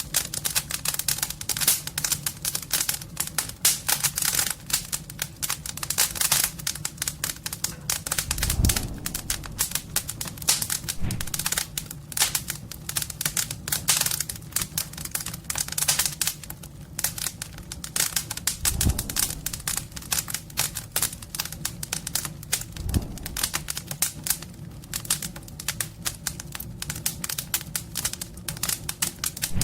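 Fire crackling in a homemade fireplace: dense, irregular snaps and pops over a steady low hum, with a few dull low thumps.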